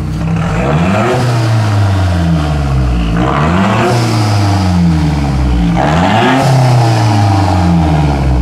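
Built 2008 Mazdaspeed 3's turbocharged 2.3-litre four-cylinder running on its first start-up, its revs swelling and falling back about three times. The pitch drops back after each rise.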